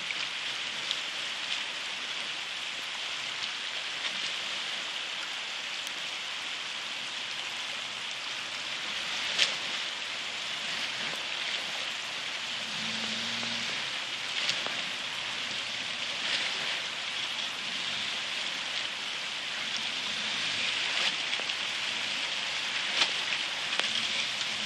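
Steady rushing of stream water, with a few sharp clicks or knocks, the loudest about nine seconds in.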